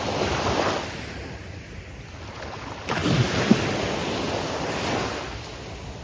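Gulf of Mexico surf: waves breaking, one surge near the start and another about three seconds in, with wind buffeting the microphone.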